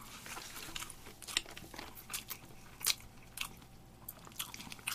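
Close-up eating sounds: people chewing sushi, with irregular sharp clicks and smacks scattered throughout.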